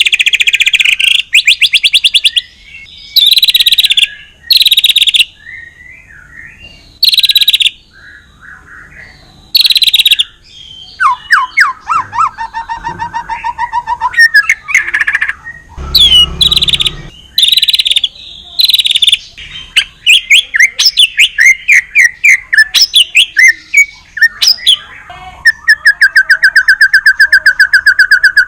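White-rumped shama (murai batu, Medan type) singing loudly in full song. It gives short bursts of fast trills separated by brief gaps, varied gliding whistled phrases, and near the end a long run of rapid repeated notes.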